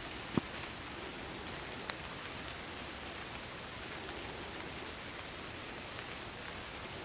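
Steady rain falling, with two louder drops striking close by, the loudest about half a second in and another about two seconds in.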